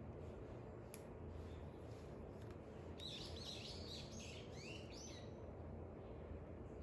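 A bird singing faintly, a quick string of chirps lasting about two seconds that starts about three seconds in, over a steady low background rumble.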